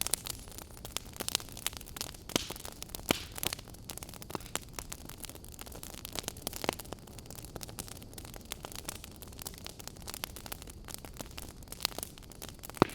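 Wood fire burning in a fireplace, crackling and popping irregularly over a soft steady rush of flame, with a few louder pops, one of the sharpest near the end.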